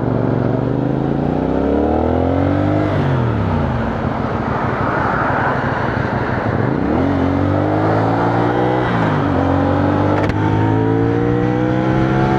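CFMoto 450NK motorcycle's parallel-twin engine accelerating through the gears, its pitch climbing and dropping at gear changes about 3 s and 9 s in, with wind rushing over the rider's microphone.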